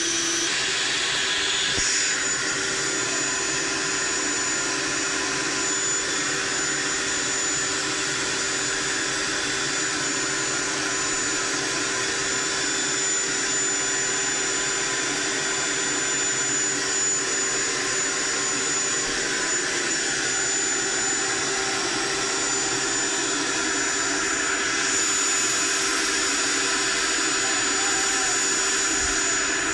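Toyota Yaris engine running steadily under the hood, a loud even rushing hiss with a faint steady whine running through it. The hiss turns brighter about 25 seconds in.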